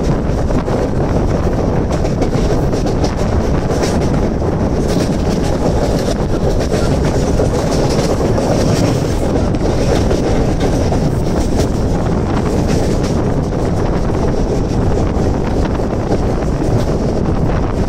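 Mumbai suburban local train (electric multiple unit) running at speed: a steady rumble of steel wheels on the rails with scattered clicks, and wind rushing over the microphone at the open doorway.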